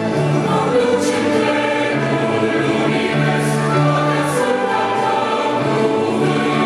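Choir singing a Christian worship song over instrumental accompaniment, the voices entering at the start after an instrumental passage.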